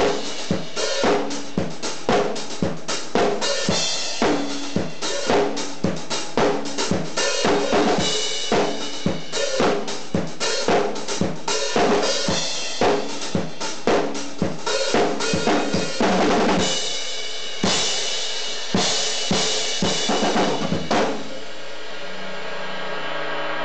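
Drum kit played fast and hard along to a rock backing track, with dense bass drum, snare and cymbal hits. The drumming stops about 21 seconds in, leaving a held chord from the track.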